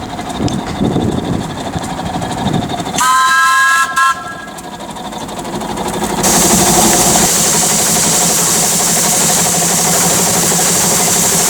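Steam whistle of a Ruston Proctor 3-ton SD steam tractor sounding a chord-like blast of just under a second, about three seconds in, followed by a short toot. From about six seconds in, a loud steady hiss of steam escaping.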